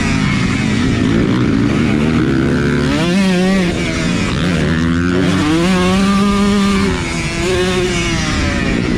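Motocross dirt bike engine revving hard under racing throttle, its pitch climbing and falling several times as it goes through the gears, with a sharp drop about seven seconds in as the throttle is rolled off.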